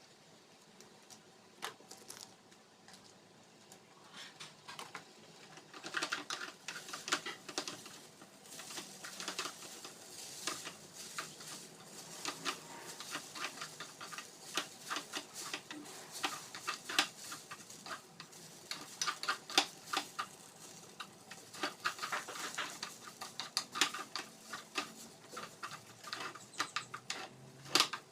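Stir-frying in a pan: a spatula clicks and scrapes against the pan in quick irregular strokes, sparse at first and busy from about six seconds in, over a faint sizzle.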